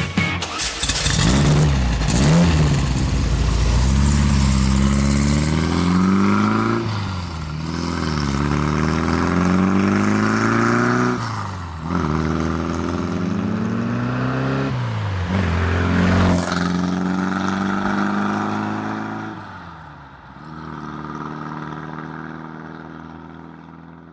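Volkswagen Beetle air-cooled flat-four engine running and being revved several times, its pitch rising and falling, then settling to a steady idle and fading out near the end.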